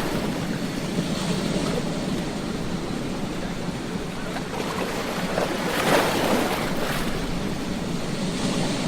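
Ocean waves washing onto a beach in a continuous rush, with one wave breaking more strongly about six seconds in.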